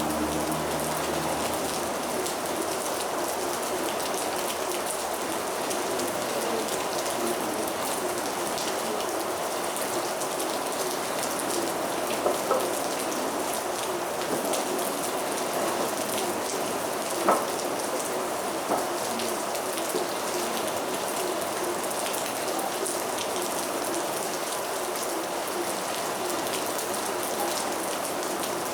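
Heavy rain falling steadily, a dense even patter, with a few louder single drops striking close by now and then.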